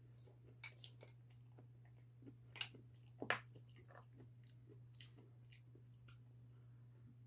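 Faint chewing and wet mouth clicks from eating soft fresh-cream cake off a spoon, with a handful of sharper clicks, the loudest a little over three seconds in. A steady low hum runs underneath.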